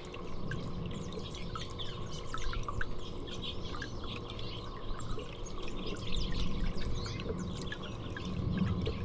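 Many small birds chirping: short, quick chirps and calls overlapping throughout, over a steady low background hum.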